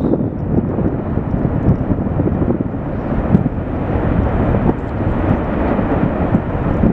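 Erupting volcano's lava fountain, a continuous deep rumbling noise with no letup.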